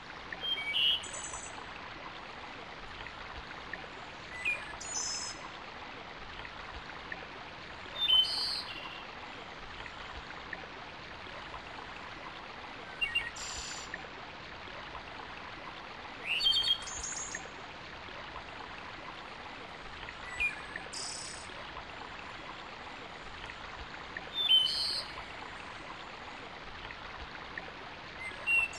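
A songbird repeating the same short chirped phrase about every four seconds, over a steady background hiss.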